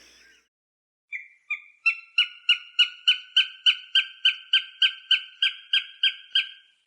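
A hawk calling a fast run of about sixteen short, sharp, evenly spaced notes, roughly three a second; the first few notes are slightly longer and lower.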